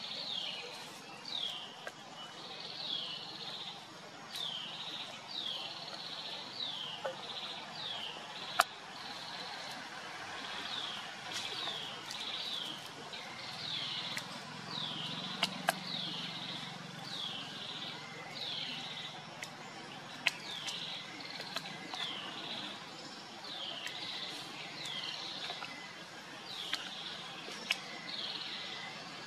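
A bird repeating a short, high chirp that falls in pitch, about once a second, with a few sharp clicks mixed in.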